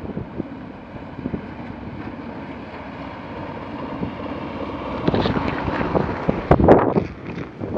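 Longtail mud motor's engine running steadily under way while being run in. Wind buffets the microphone, with louder gusts from about five seconds in.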